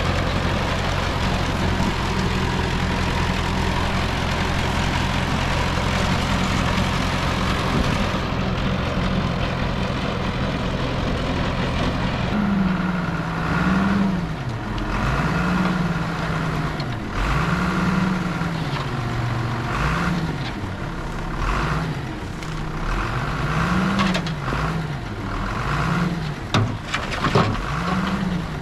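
Heavy diesel engine running steadily, then revving up and down repeatedly about every two seconds, as under changing load. A few sharp clanks near the end.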